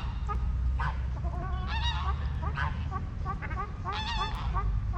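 Geese honking repeatedly, several short calls overlapping, with the loudest honks about two and four seconds in, over a steady low rumble.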